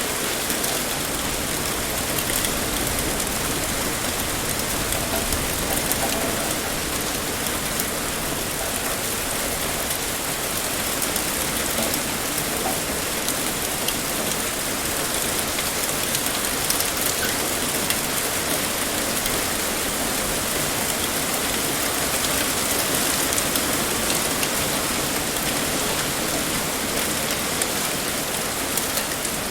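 Heavy rain pouring steadily, a dense even hiss with the patter of drops striking a surface.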